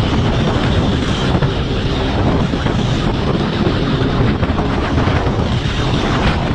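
Loud, steady rushing of wind on the microphone over a running vehicle.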